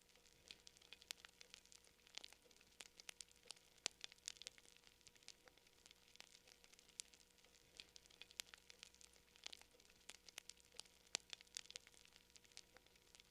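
Wood fire crackling faintly, with frequent irregular sharp pops and snaps.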